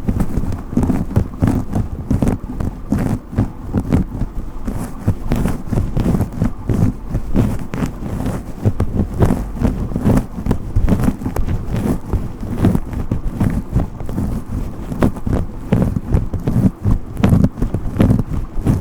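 Brush strokes rubbing close to the microphone: a dense, irregular run of scratching and crackling with low rumbling knocks.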